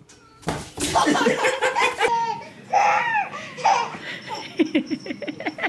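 A person laughing hard: loud, wavering peals from about half a second in, breaking into a quick run of short bursts near the end.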